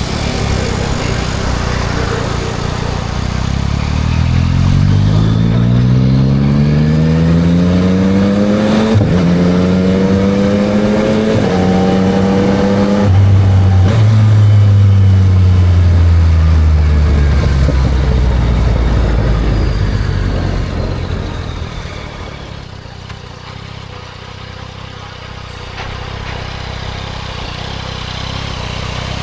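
Yamaha MT-09 SP's three-cylinder engine through a Spark aftermarket exhaust, accelerating hard with the pitch rising and dropping at three quick upshifts, then rolling off and falling in pitch as the bike slows, settling to a quieter low run near the end.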